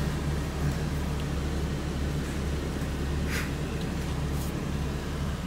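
Semi truck's diesel engine running with a steady low hum, heard from inside the cab.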